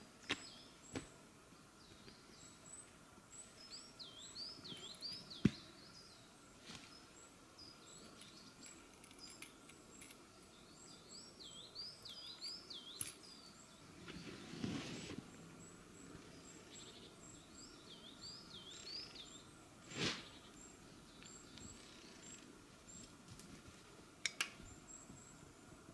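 Small forest birds singing: a looping, warbling phrase repeated three times about every six or seven seconds, with thin high chirps scattered throughout. A few sharp knocks and a brief rustle from gear being handled come over it.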